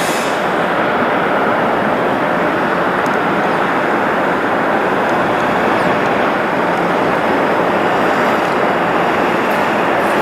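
Jet airliner engines, a steady, even rush of noise that holds the same level throughout.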